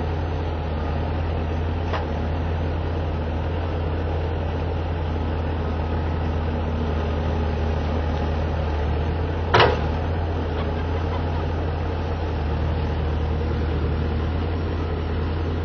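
Bobcat skid-steer loader engine running steadily, with a single sharp knock about ten seconds in.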